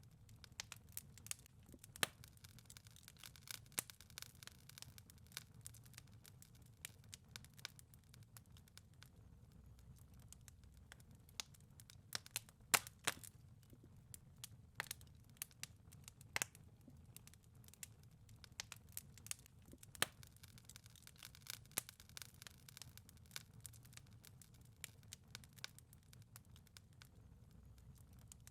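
Wood fire crackling in a fireplace: irregular sharp pops and snaps over a faint low rush of the burning. The loudest pop comes about thirteen seconds in.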